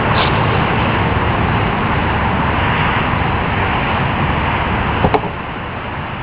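Ford Ranger 4.0L V6 running through a straight-piped 2.5-inch exhaust, a loud, steady exhaust note. A single sharp click comes about five seconds in, after which the engine sound drops a little quieter.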